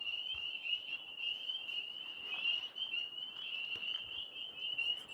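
A chorus of frogs calling, a continuous high trill that wavers without a break.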